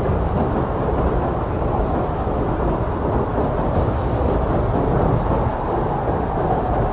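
Steady low, rumbling blizzard wind, a dense roar of gusting air with no separate events.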